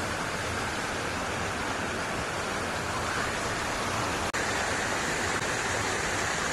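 Waterfall rushing steadily, an even wash of falling water, broken by a momentary gap about four seconds in.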